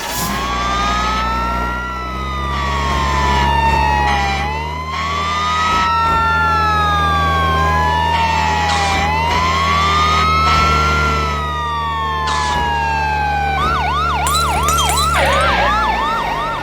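Emergency-vehicle siren wailing, its pitch slowly rising and falling about every four to five seconds, over a steady low engine drone. Near the end it switches to a fast yelp of rapid up-and-down sweeps.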